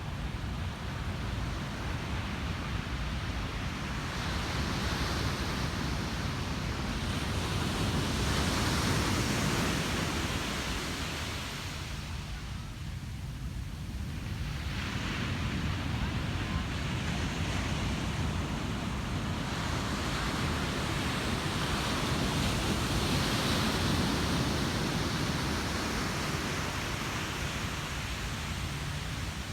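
Ocean surf breaking and washing up a beach, a continuous rush of noise that swells and eases with the waves. It is loudest about eight to ten seconds in and drops into a short lull a few seconds later before building again.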